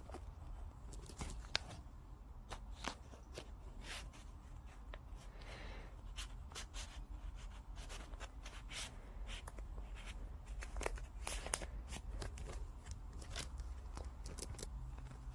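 Irregular small clicks, snips and rustles of something being handled at close range, over a low steady rumble.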